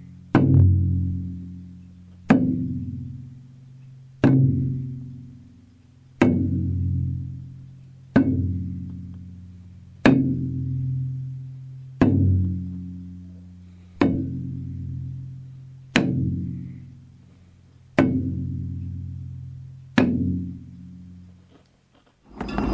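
Slow, even percussion: a sharp hollow hit about every two seconds, eleven in all, each ringing down with low tones. Near the end a loud, steady rushing noise cuts in suddenly.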